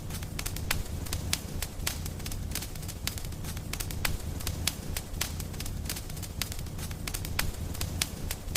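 Wood fire burning in a fireplace, crackling with frequent sharp pops at irregular intervals over a low, steady rumble of the flames.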